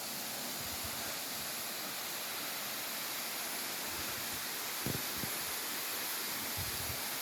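Waterfall water pouring down, a steady even rushing hiss, with a couple of faint low thumps about five and six and a half seconds in.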